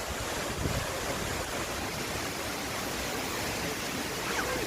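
Steady rush of falling water from a 55-metre waterfall.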